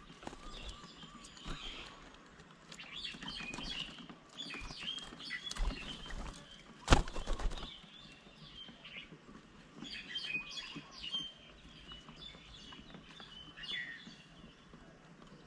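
Small birds chirping and calling at a bird table, with scattered taps and knocks and one sharp, loud knock about halfway through.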